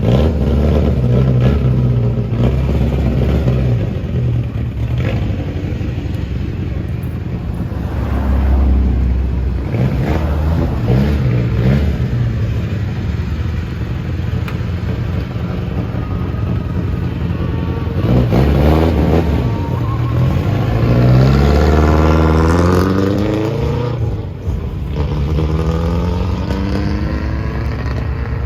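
Modified cars with straight-piped exhausts driving out one after another, their engines revving up and down several times.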